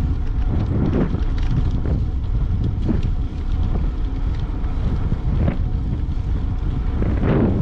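Wind buffeting the camera's microphone while cycling: a steady, loud low rumble that flutters, with a few faint ticks and rattles.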